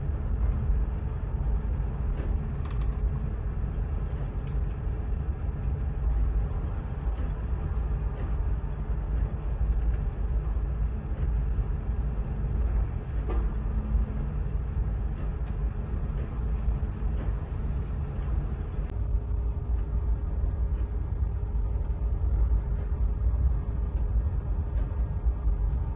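Nuclear icebreaker under way, a steady low rumble with a faint machinery hum and occasional light knocks; the higher hiss drops away about three quarters of the way through.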